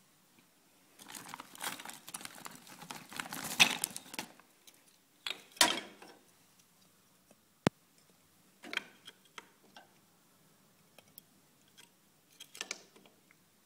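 Dry kindling sticks rustling, scraping and knocking against each other as they are stacked into a small tower for a fire. A long stretch of scraping early on, then separate knocks, with one sharp click about eight seconds in.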